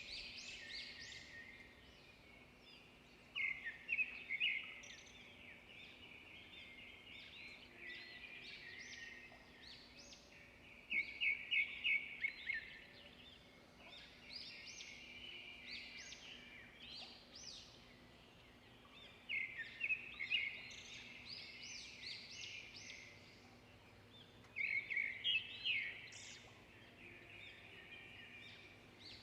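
Songbirds chirping and singing. Every six to eight seconds one bird sings a louder phrase of quick repeated notes, four times in all, over steady chirping from other birds.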